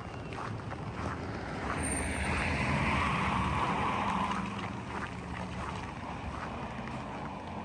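A motor vehicle drives past, its sound swelling about two seconds in and fading away after about four and a half seconds, over a steady low hum.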